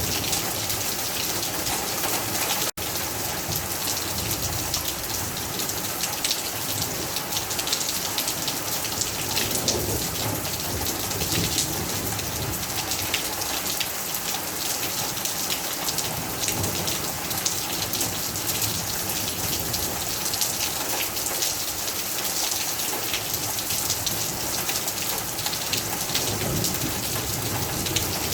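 Heavy rain falling steadily, a dense patter of drops hitting surfaces, with a momentary drop-out in the sound about three seconds in.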